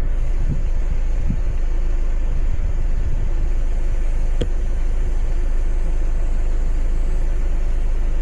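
Jeep driving along the road: a steady, loud low engine and road rumble, with a single click about four seconds in.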